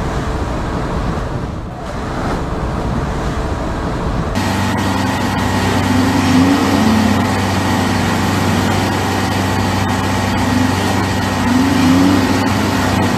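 A boat engine running steadily with a low hum whose pitch wavers slightly. For about the first four seconds it is instead a rumbling rush of noise, which cuts off abruptly into the engine sound.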